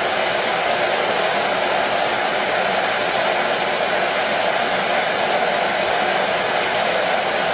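Washing machine running with a steady, unchanging noise.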